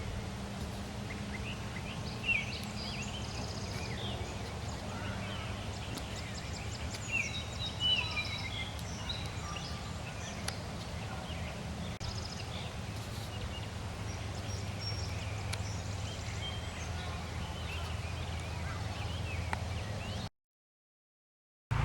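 Woodland birds calling: many short chirps, whistles and trills from several birds, a little louder around two and eight seconds in, over a steady low rumble. The sound cuts off suddenly near the end.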